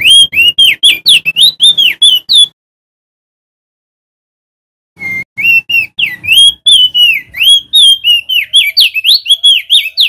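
Male crested white-eye (opior jambul) singing loud, rapid runs of sliding whistled notes. The song breaks off about two and a half seconds in and starts again about five seconds in.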